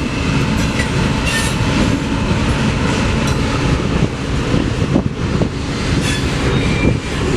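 Freight train of oil tank cars rolling past: a steady, loud rumble of steel wheels on rail, with light clicking over the joints and a faint wheel squeal now and then.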